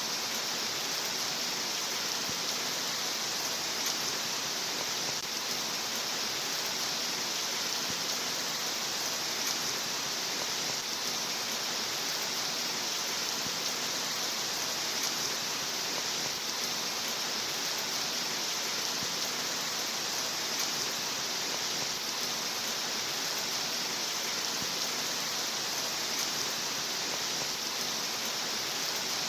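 Steady rain sound: an even, unbroken hiss of falling rain.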